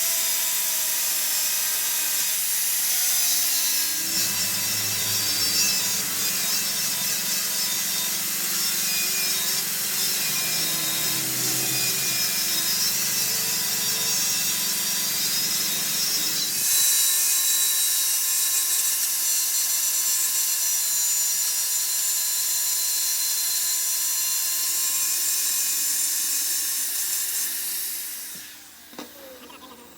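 Machine tool cutting metal, running steadily with a high whine. The sound shifts about halfway through and winds down near the end.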